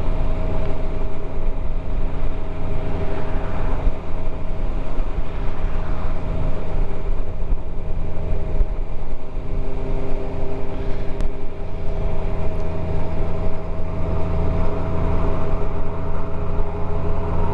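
Motorcycle engine running steadily under way, a constant drone with a low rumble of road and wind noise.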